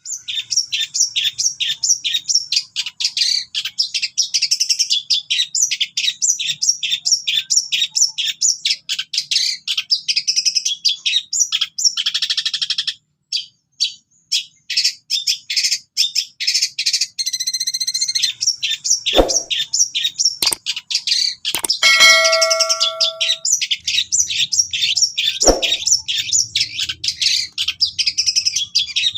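Long-tailed shrike (cendet) singing a fast, dense run of high chirps with a few sustained whistled notes mixed in, its song full of mimicked cililin calls. The song pauses briefly about halfway through, and two sharp clicks come later.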